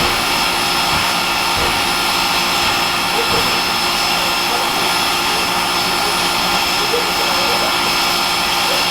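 Steady rushing noise of a steam train running, with voices murmuring underneath.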